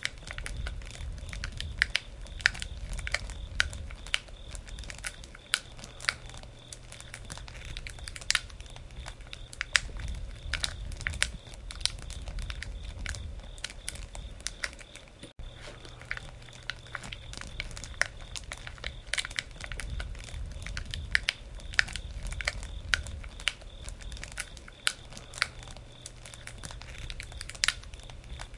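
Wood campfire burning and crackling, with frequent irregular sharp pops and snaps over a low rumble.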